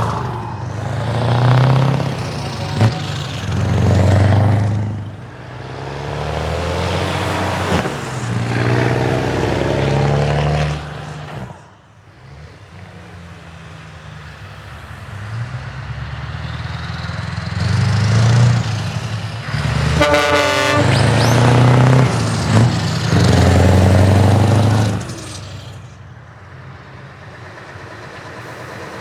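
Several big trucks with open exhaust pipes driving past one after another, their engines revving in loud swells with brief lulls between. About two-thirds of the way through there is a quick rattling run of pops.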